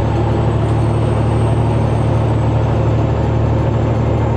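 Semi-truck diesel engine and road noise heard from inside the cab while driving, a steady low drone.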